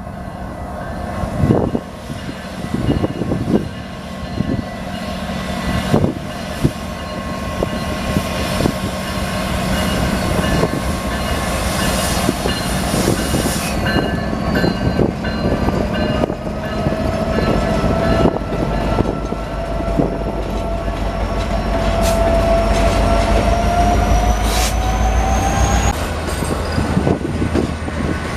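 A train passing close by, its wheels clacking over rail joints, over a low rumble that grows heavier in the second half. A long, thin wheel squeal slowly rises in pitch through the second half.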